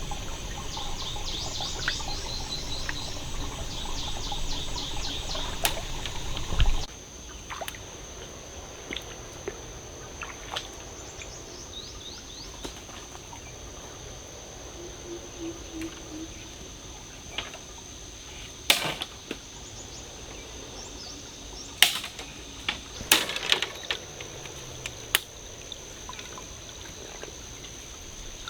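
Forest ambience: chirping bird calls in quick repeated series over a steady high insect whine, which stops abruptly about seven seconds in. After that comes quieter background with a few scattered sharp clicks and knocks.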